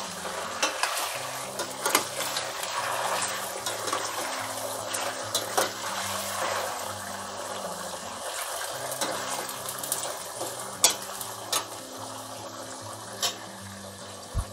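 Raw chicken pieces frying in hot mustard oil in a kadhai, sizzling steadily while being browned until the colour changes, with a spoon knocking and scraping against the pan now and then as they are stirred.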